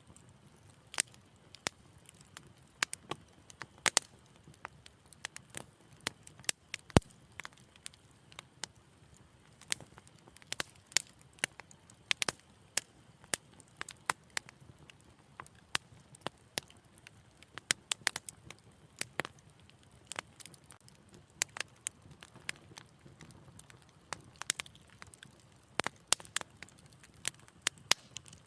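Wood fire crackling: irregular sharp pops and snaps, several a second at times, over a faint low rumble of the flames, with one louder crack about seven seconds in.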